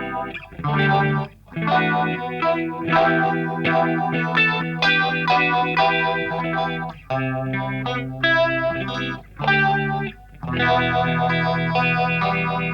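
Electric guitar played through a Madbean Nom Nom phaser pedal, a Phase 90-style phaser, with some distortion: strummed chords and ringing notes in phrases broken by short gaps.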